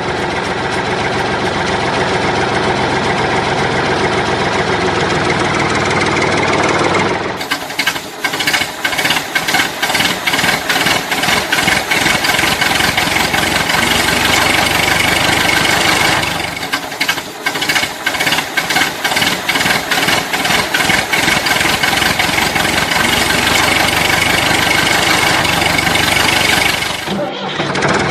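Diesel-type tractor engine sound. A steady drone for about seven seconds gives way to a fast, even knocking chug, which breaks off briefly about two-thirds of the way through and then resumes.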